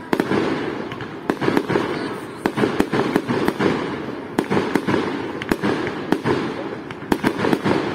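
Fireworks display: aerial shells bursting in a rapid series of sharp bangs, often several in quick succession, over a continuous rolling rumble of echoes and burning effects.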